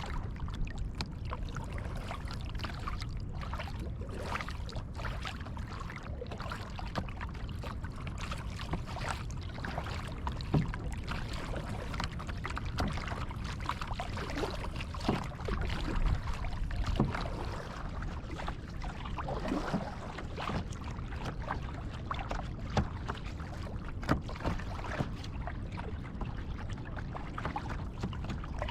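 Kayak paddling on calm water: the paddle blades splash and drip now and then, over a low steady rumble.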